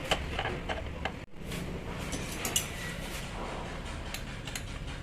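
Scattered light clicks and taps of metal parts and hand tools being handled while a rotary hammer is taken apart, over a steady low hum. The sound briefly drops out about a second in.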